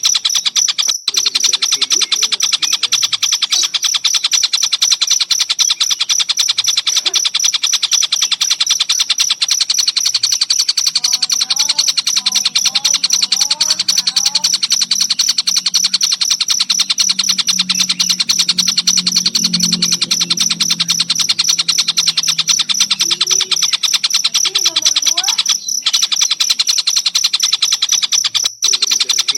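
Cricket chirping in a fast, steady, high-pitched pulsing trill, broken by brief pauses about a second in and twice near the end. Faint lower bird notes come and go, with a low hum through the middle.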